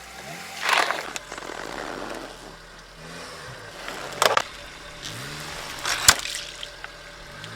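A car tyre rolling over objects and crushing them, with three loud crunches; the last one, about six seconds in, is a sharp crack.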